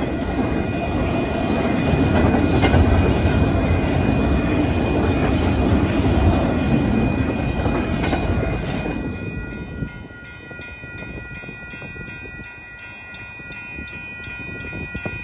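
Double-stack intermodal container train rolling past, its wheels rumbling over the rails, until the last car clears about nine seconds in. A grade-crossing warning bell rings steadily throughout and is heard clearly once the train has gone.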